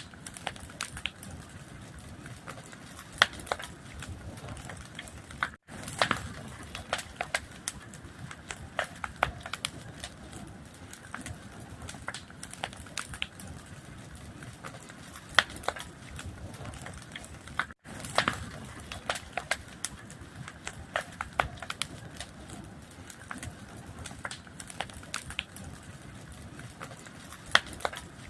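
Fire crackling: irregular sharp pops and snaps over a steady hiss, with a louder pop about every twelve seconds. The sound cuts out for an instant twice.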